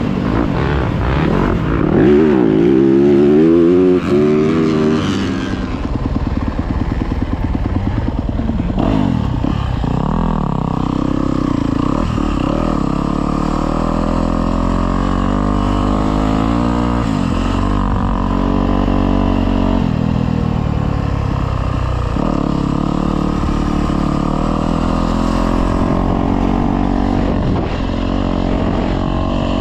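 Yamaha YZ250F dirt bike's four-stroke single-cylinder engine under hard riding, revving up and dropping back through several quick shifts in the first few seconds, then holding a steadier, slowly rising and falling note.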